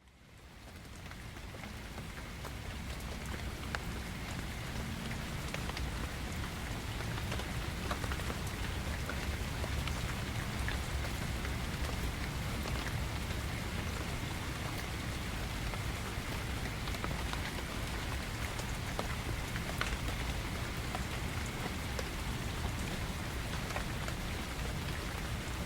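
Gentle, steady rainfall fading in over the first few seconds, with scattered single drops ticking through the hiss.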